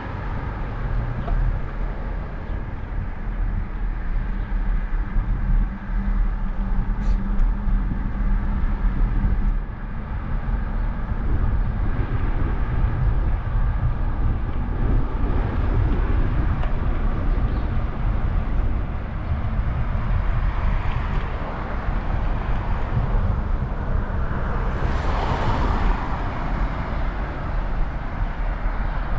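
Outdoor road traffic with a steady low rumble; one vehicle swells up and passes close about three-quarters of the way through.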